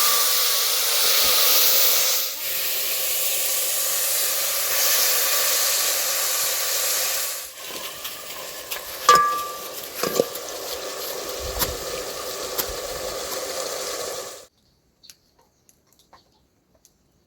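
A loud, steady hiss. It drops to a lower level about seven and a half seconds in, with a few sharp clicks and knocks over it, then cuts off suddenly.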